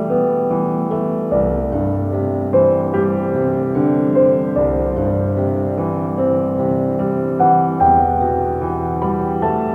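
Slow, gentle piano music with sustained notes and deep bass notes entering every few seconds.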